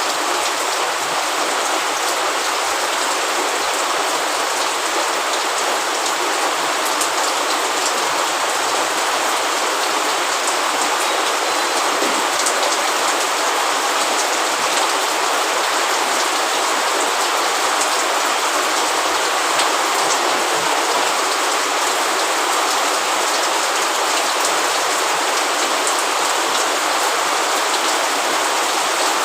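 Steady rain falling, with scattered drop ticks. The level stays even throughout.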